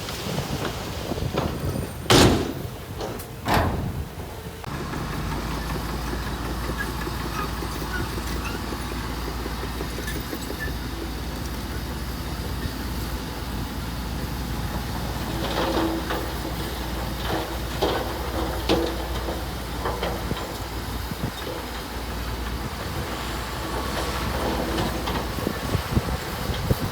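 Heavy diesel earthmoving machinery: two loud metallic bangs about two and three and a half seconds in, then a steady low engine rumble with scattered clanks in the middle.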